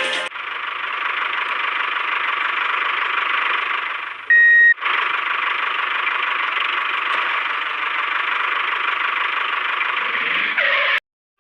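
Steady, even mechanical running noise, interrupted by one loud half-second beep about four seconds in, then cutting off abruptly near the end.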